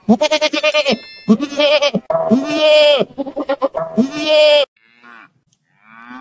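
White goat kid bleating several times in quick succession, the first bleat wavering. A cow starts to moo near the end.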